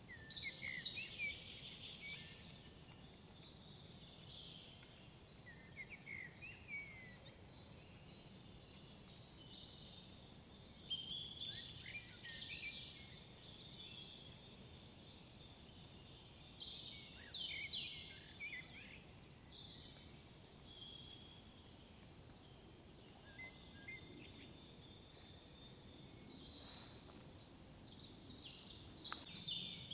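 Several songbirds singing in short, high, twittering phrases that repeat every few seconds, over a faint low background rumble.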